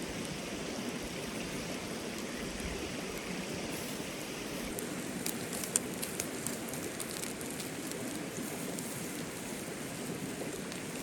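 Meat sizzling on a grill over a campfire, with sharp crackles and pops starting about five seconds in, over the steady rush of a mountain stream.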